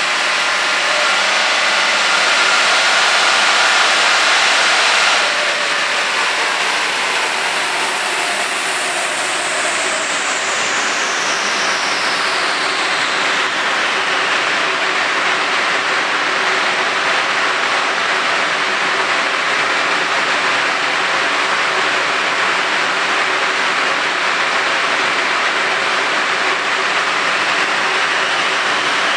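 Ford XR5 Turbo's turbocharged five-cylinder engine under full load on a chassis dyno, rising in pitch and loudness, then cutting off sharply about five seconds in as the power run ends. A falling whine follows as things spin down, over a steady loud rushing noise that lasts to the end.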